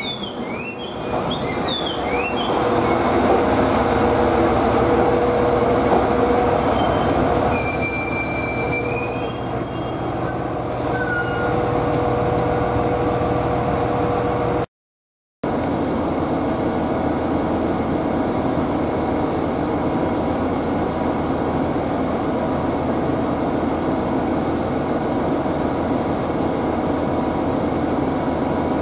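JR East GV-E400 diesel-electric railcar running at a station, a steady rumble of engine and wheels, with a few short high tones about eight to eleven seconds in. After a brief dropout, a steady rumble of a train approaching.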